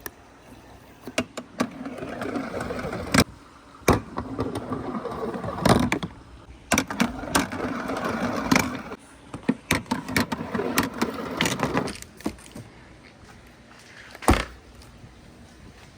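Balls rolling down a wooden marble run: stretches of rolling rumble a second or two long, broken by sharp clacks as they drop and strike the track.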